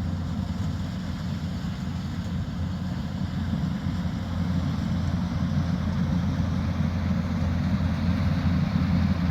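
Combine harvester running steadily: a low engine drone with machinery noise over it, growing a little louder about halfway through.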